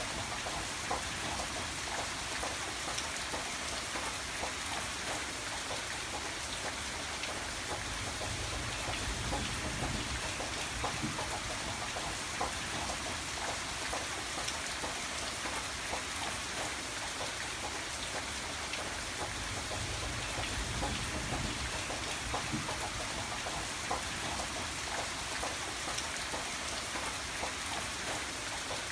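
Steady rain falling, with many small drop ticks over an even hiss and a low rumble underneath.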